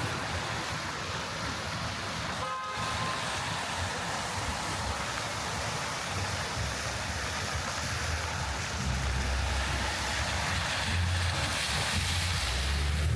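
Steady hiss of rain on the street with traffic, a short car-horn toot about two and a half seconds in, and a vehicle's low rumble swelling near the end.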